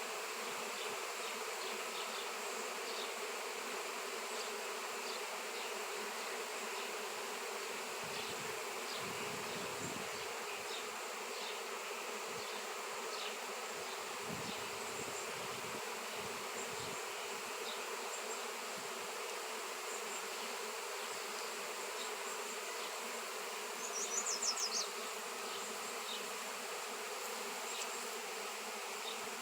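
A swarm of honey bees buzzing, many bees together making a steady, continuous drone. A brief high, rapid trill rises above it near the end.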